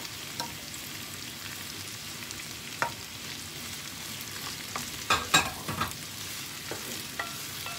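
Roast chicken pieces sizzling in hot oil with sautéed garlic and onion in a pan, while a utensil stirs them with scrapes and knocks against the pan; the loudest clatter comes about five seconds in.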